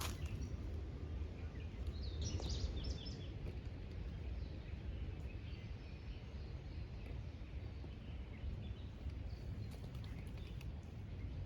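Outdoor trail ambience: a steady low rumble, with a brief cluster of small birds chirping about two seconds in.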